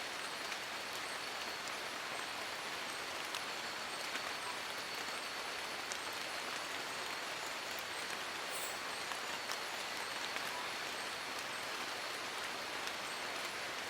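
Steady rain falling on forest leaves: an even hiss with scattered individual drops ticking through it.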